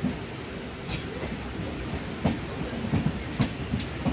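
Pallavan Express passenger train running at speed, heard from on board: a steady rumble of the coach, with irregular knocks and clicks from the wheels and bogies.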